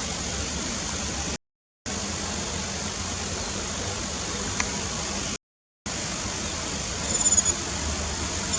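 Steady hiss and low rumble of background noise, cut off by two short silences, with a bird's high, rapid trill of short notes breaking in near the end.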